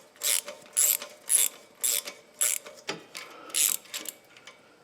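Hand ratchet wrench worked in short back-and-forth strokes, a quick burst of clicks about twice a second.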